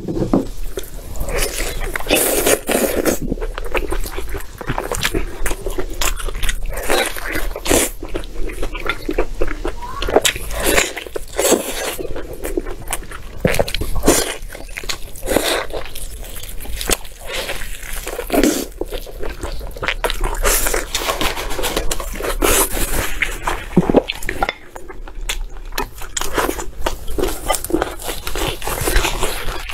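Close-up eating sounds of a large piece of braised lamb: wet, irregular biting and chewing, with small crunches and clicks throughout.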